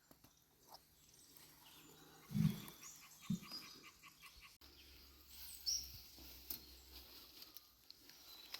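Quiet outdoor ambience with faint bird chirps, and two soft thumps a second apart near the middle.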